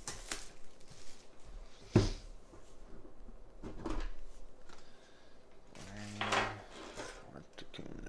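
A collector tin and its card packs being handled, with scattered knocks and rustles and one sharp knock about two seconds in.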